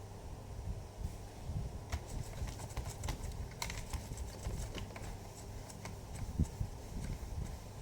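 Irregular small clicks and taps of a screwdriver working at a stuck screw in a laptop's plastic case, with low handling bumps.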